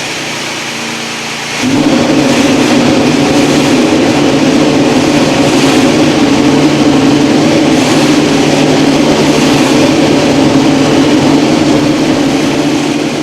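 Ferrari SF16-H Formula 1 car's 1.6-litre turbocharged V6 hybrid power unit running after fire-up, stepping up to a steady, higher engine speed about two seconds in and holding there, then starting to fade near the end.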